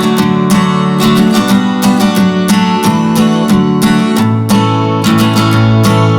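Background music: an acoustic guitar strumming chords in a steady rhythm, the chord changing about four seconds in.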